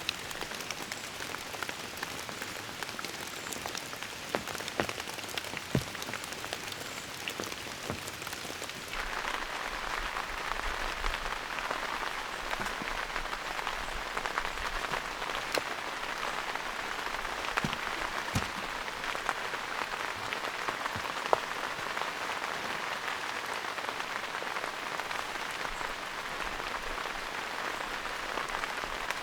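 Steady rain falling, with scattered sharp taps of individual drops. About nine seconds in, the rain becomes louder and denser.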